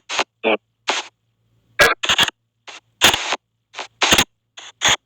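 Spirit box app on a phone sweeping: short chopped bursts of noise and clipped voice fragments, about two or three a second, with silent gaps between them.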